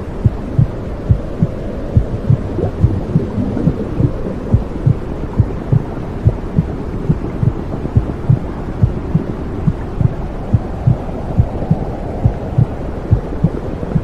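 Womb-sound white noise: a steady heartbeat thumping evenly over a continuous low whooshing noise.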